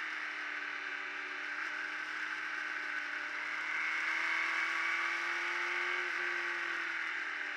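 Motorcycle engine running hard at high revs on a race track, its pitch sinking slowly and then climbing again, under a steady rushing noise.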